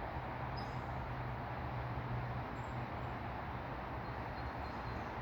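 Steady outdoor background noise with a low hum, like distant traffic, and a few faint high chirps.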